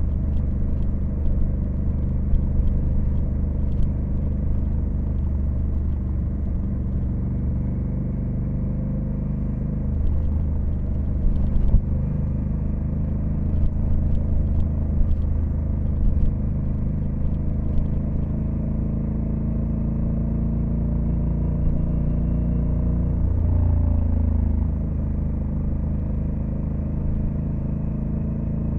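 Honda Africa Twin CRF1100L's 1084 cc parallel-twin engine running under way at a steady road speed, with a short change in the engine note a little past twenty seconds in.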